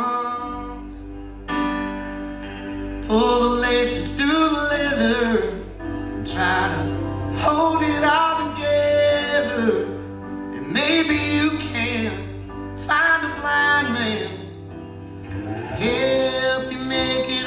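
Live rock band music: a voice sings drawn-out phrases over guitars and a steady bass.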